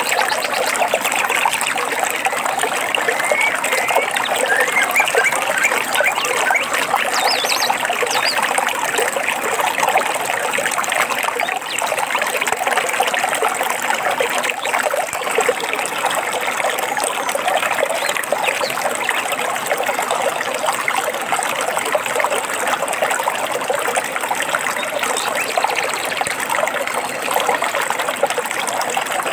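A shallow stream trickling and babbling steadily, with a few faint bird chirps about three to eight seconds in.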